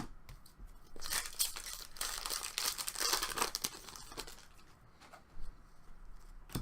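Crinkling and tearing of a trading-card pack wrapper as it is handled and opened, a dense rustle for about three seconds starting a second in, followed by lighter handling noises.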